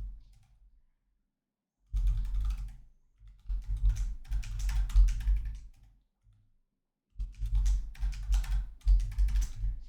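Typing on a computer keyboard in three quick runs of keystrokes, each key press carrying a dull thud, with short pauses between the runs.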